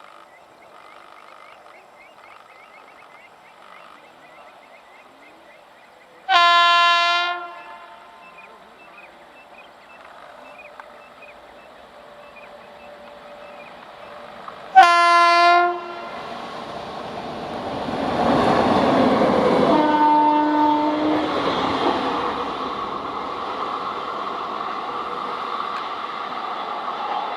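WAP-7 electric locomotive sounding its horn in two clear blasts of about a second each, some eight seconds apart. The train's rumble on the rails then builds up loudly and holds, with a fainter, lower horn note partway through.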